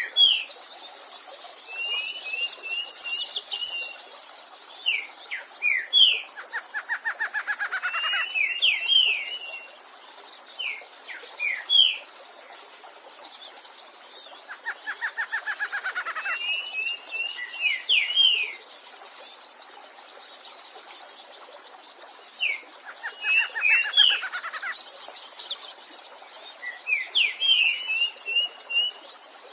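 Songbirds singing a complex phrase that repeats about every eight seconds. Each phrase opens with a fast run of notes falling in pitch, then breaks into short trills and high chirps, over a faint steady rush of water from a stream.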